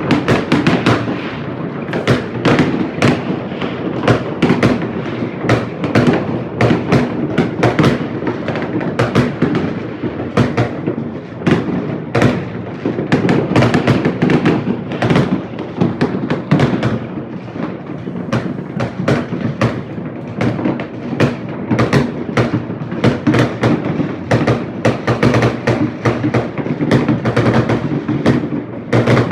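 New Year's fireworks going off all around in a dense, unbroken barrage: many bangs and crackles overlapping, several a second, over a low rumble.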